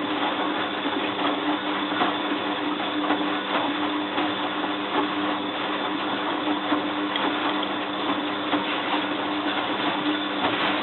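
Bosch WFF2000 washing machine running mid-programme: a steady motor hum with a noisy churning and ticking over it.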